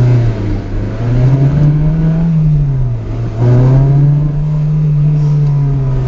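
Honda K20 four-cylinder engine in a swapped Honda Insight accelerating under load. The revs rise, fall away with a brief dip in loudness about three seconds in, then pick up again and hold steady.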